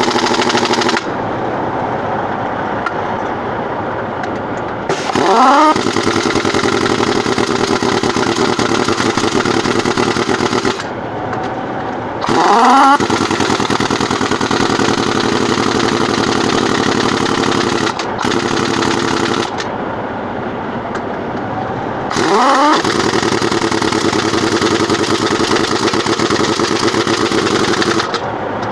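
Air impact wrench working on truck-tire lug nuts, over a steady running machine. Four times it spins up with a quick rising whine, then hammers with a rattle for several seconds at a stretch.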